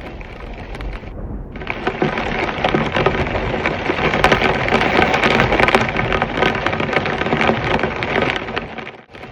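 Heavy rain falling, a dense patter of drops that grows louder about a second and a half in and cuts off abruptly near the end.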